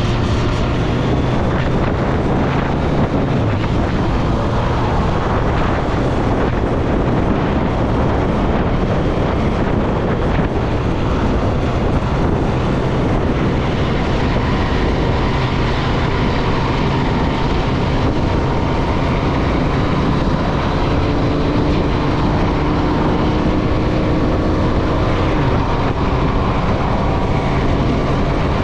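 Triumph Street Triple motorcycle's inline three-cylinder engine running steadily under way, with wind noise over the microphone.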